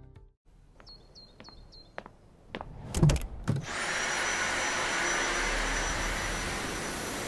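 A few short high chirps and clicks, a clunk about three seconds in, then a vacuum cleaner's motor starts and runs steadily with a high whine.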